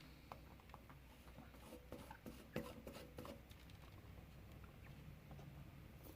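Near silence: room tone with faint, scattered light taps and clicks of small handwork, one a little louder about two and a half seconds in.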